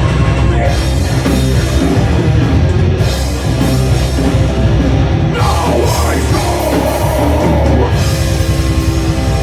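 Live rock band playing loud: drum kit, bass and guitars together, with a wavering lead line rising above the band for a couple of seconds near the middle.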